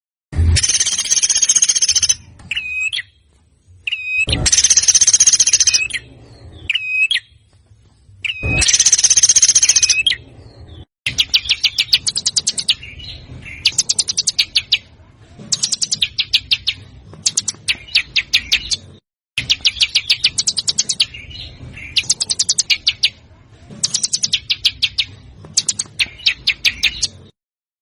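Recorded songbird calls: three long, harsh, buzzing calls a few seconds apart with short chirps between them, then, after a brief break, repeated bursts of very fast rattling, clicking notes about a second long each.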